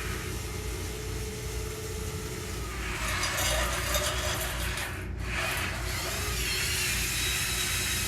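Small electric drive motors and hydraulic pump of a radio-controlled construction model running with a steady hum and whine. The machine gets louder and noisier from about three seconds in to about six seconds in.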